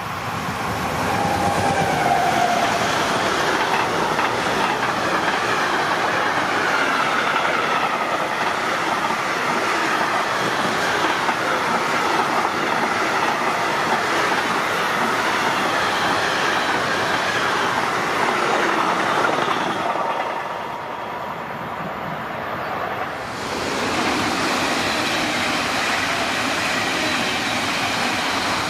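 A freight train of container flat wagons rolls past close by, its wheels clacking steadily with a thin drifting squeal. About twenty seconds in it fades, and a class 423 S-Bahn electric multiple unit then passes.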